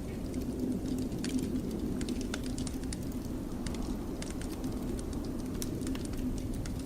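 Wood fire in a fireplace crackling, with irregular sharp pops and snaps, over a steady low rumble of blizzard wind.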